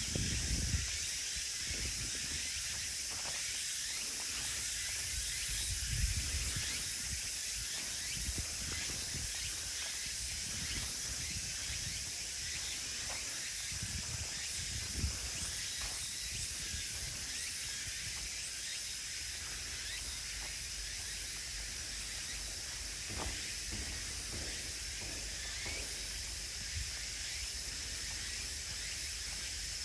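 Steady high-pitched chorus of insects, with soft, irregular low thumps of footsteps on the woodland path beneath it.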